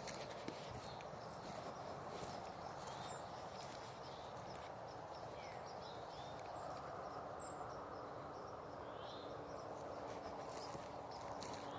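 Quiet outdoor ambience: a steady low hiss with scattered short, high bird chirps. A faint steady hum comes in about halfway through.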